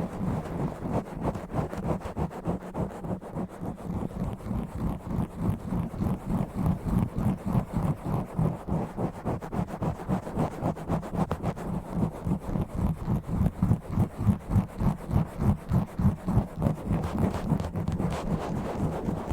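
Fast, rough scratching and rubbing directly on an uncovered microphone, in rapid strokes several a second, deep and heavy in the low end.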